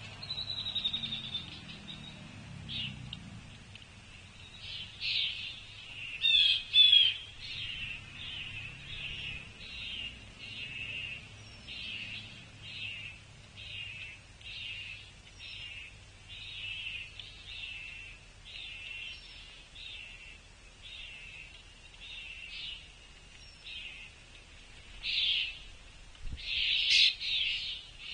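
A bird calling over and over, short high notes about one a second, with a few louder, harsher calls a few seconds in and again near the end.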